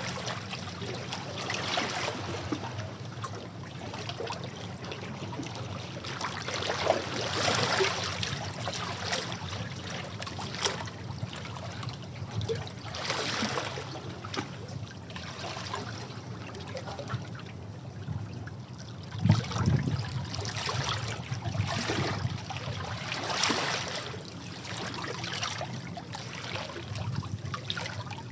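Sea waves washing against rocks: a continuous rush of water with irregular surges every few seconds, the strongest about two-thirds of the way through, with a low thud.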